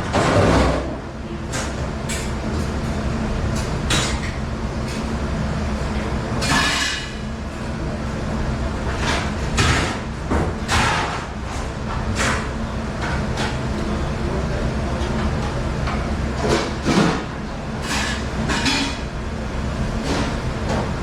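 A steady machine hum under repeated, irregular clatters and knocks of dishware and trays, as in a commercial kitchen's dish room.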